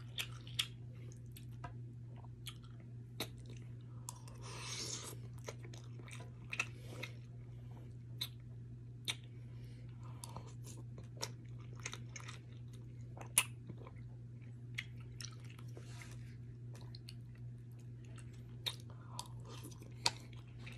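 Close mouth sounds of a person chewing soft, saucy pasta noodles, with scattered short clicks and smacks. A steady low hum runs underneath.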